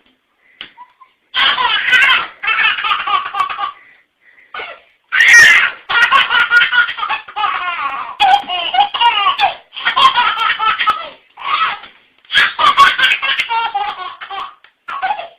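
A small child laughing hard in long, repeated fits, broken by short pauses, beginning about a second and a half in.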